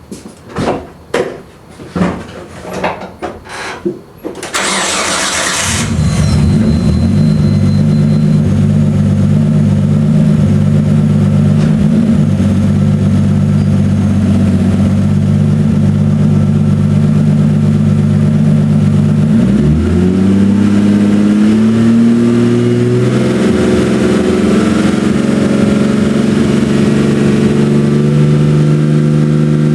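Nissan RB25DET turbocharged inline-six, freshly rebuilt, cranking with a rhythmic churn for about four seconds, then catching and settling into a steady idle. About two-thirds of the way through, the idle speed rises and holds higher. The owner posted it over a ticking noise from the engine after the rebuild.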